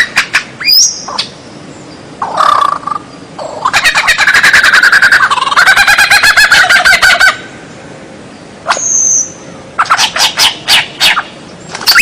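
A songbird singing a varied, loud phrase: short whistled notes, then a long rapid harsh rattle of many quick notes lasting several seconds, a high whistle, and a quick run of sharp clicking notes near the end.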